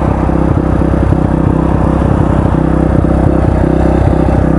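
Dual-sport motorcycle engine idling steadily at a fast idle: the idle is set a little too high.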